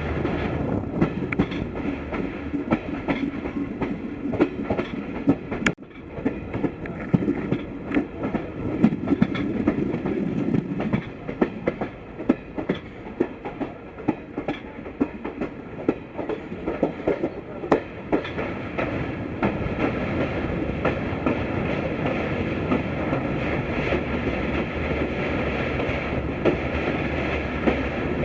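Indian Railways express train's passenger coach running on broad-gauge track: a steady rumble with irregular clicks and knocks of the wheels over rail joints, thick in the first two-thirds and giving way to a smoother run near the end.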